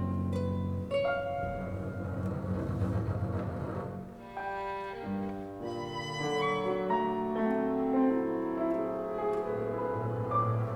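A contemporary chamber ensemble of clarinet, violin, double bass, guitar and piano playing held, overlapping notes that step from pitch to pitch, with bowed strings and piano prominent.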